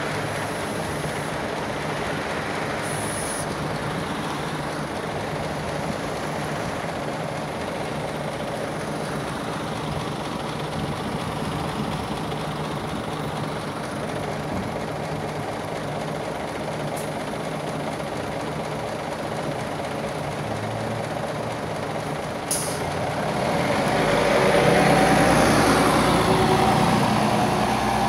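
Scania OmniLink city bus idling steadily at a stop, with short hisses of air; a sharp hiss of air just before it pulls away near the end, its engine rising in pitch and loudness as it accelerates off, then fading.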